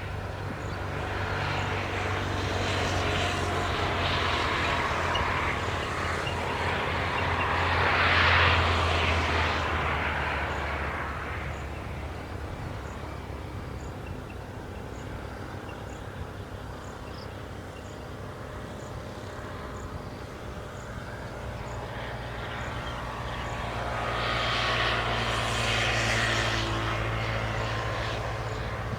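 A distant engine drone over a steady low hum, swelling louder about eight seconds in and again near the end before fading.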